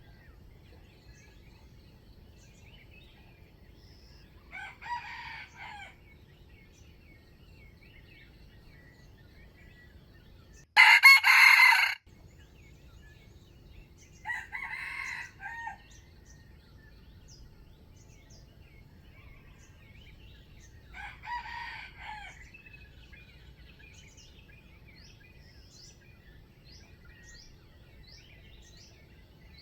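Wild junglefowl roosters crowing: four short crows, one every five or six seconds. The second crow, near the middle, is much louder and closer than the other three, which are fainter. Small birds chirp faintly in the background.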